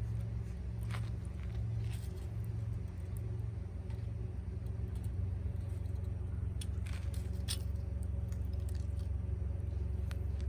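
A steady low mechanical hum, pulsing slightly at first and then even, with scattered sharp crackles and pops from a wood campfire.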